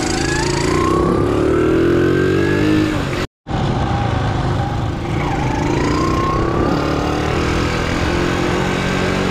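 Honda Super Cub 90's small single-cylinder four-stroke engine pulling under way, its pitch rising as it accelerates. The sound cuts out briefly about three seconds in. After that the pitch drops about five seconds in, climbs again through the next gear, then holds steady.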